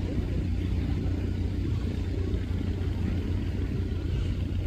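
Steady low rumble of a river speedboat's engine running, heard aboard the boat.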